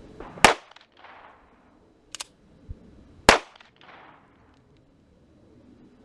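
Two gunshots about three seconds apart, each followed by a short fading echo, with a lighter double crack between them.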